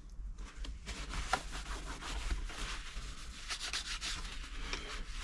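Continuous rubbing and scuffing handling sounds, irregular and noisy, like cloth or fabric being rubbed against a hard surface.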